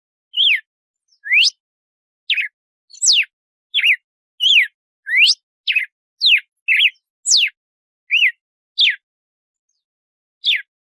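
Red-cowled cardinal (galo-de-campina) singing its 'açoite' song: a quick series of loud, clear whistled notes, some sweeping steeply down and some rising, with a short pause before a last note near the end.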